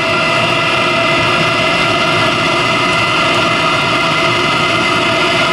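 Chinese diesel air heater running steadily with a steady roar and whine from its combustion blower and fan. It is firing cleanly on a fuel that is mostly 10W30 engine oil blended with diesel.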